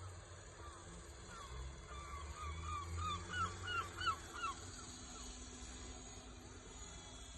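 A bird calling: a quick run of about ten short, arched calls that grow louder, then stop, over a steady low rumble.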